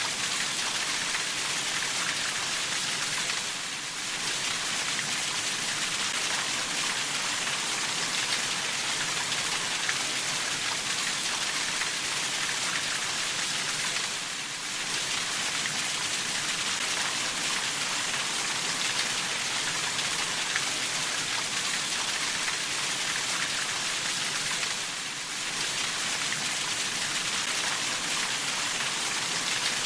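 Steady rainfall: an even hiss of rain with small drops ticking through it. The sound dips briefly about every ten seconds.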